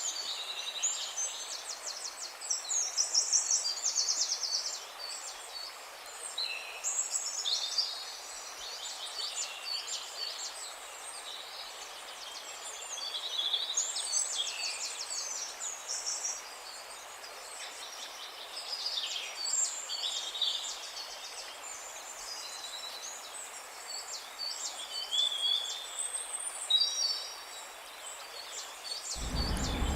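Several songbirds chirping and trilling in quick, overlapping high calls over a faint steady hiss of open-air background. A low rumble comes in suddenly near the end.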